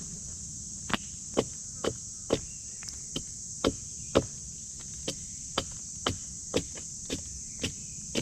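Footsteps at an even walking pace, about two a second, over a steady high-pitched hiss.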